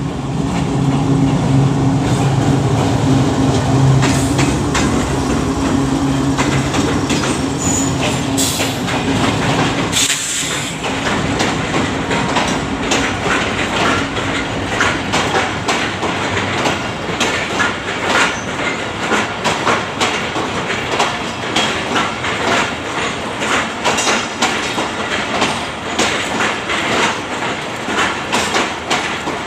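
Pakistan Railways express train going past: a diesel locomotive's steady engine hum for about the first ten seconds, then the coaches' wheels clattering over the rail joints in a fast, steady run of clicks.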